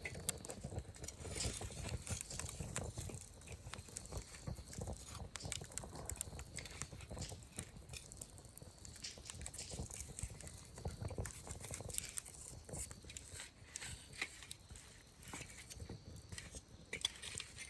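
Wood campfire crackling, with many small irregular pops and snaps.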